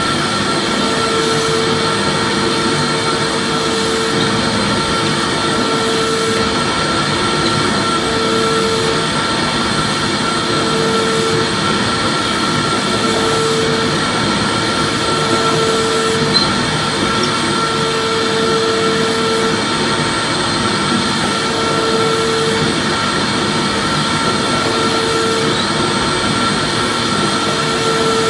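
Vacuum cleaner running continuously with a steady motor whine and rushing air, used as soothing white noise for a baby. A lower hum in the sound pulses on and off every second or two.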